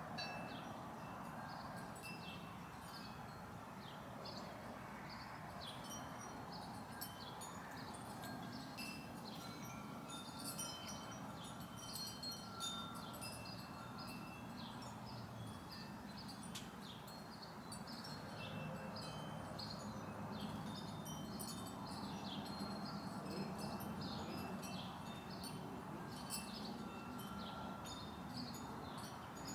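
Wind chimes tinkling irregularly, many short high notes at a few recurring pitches, over a steady low outdoor rumble.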